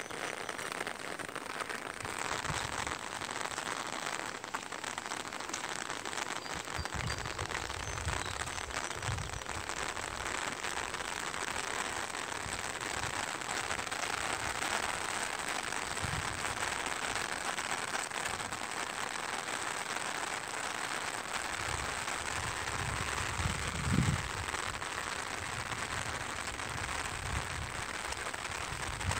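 Steady hiss of falling rain, with a few low bumps now and then, the strongest about 24 seconds in.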